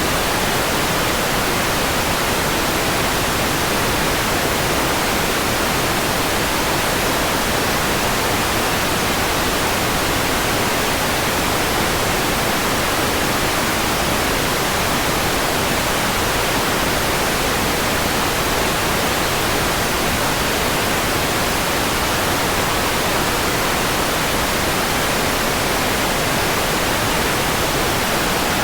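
Steady synthetic white noise: an even, unchanging hiss across the whole range of pitch.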